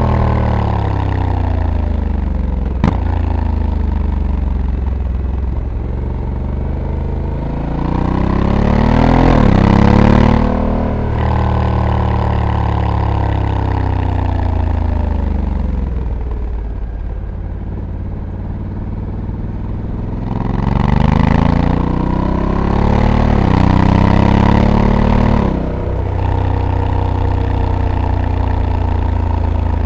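Honda Africa Twin's 1084 cc parallel-twin engine heard from the rider's seat, easing off and then accelerating hard twice. Each time the pitch rises and then drops sharply as the dual-clutch gearbox shifts up. Wind noise grows with speed, and there is one sharp click about three seconds in.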